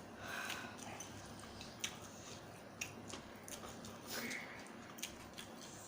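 Someone chewing food quietly, with a few short light clicks scattered through.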